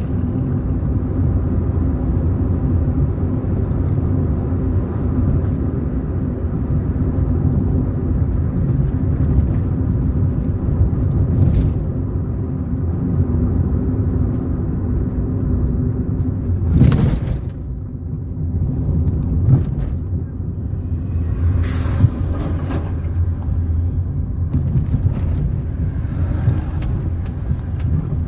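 Steady low rumble of a car's engine and tyres heard from inside while driving, with a few brief bumps and whooshes, the biggest about halfway through.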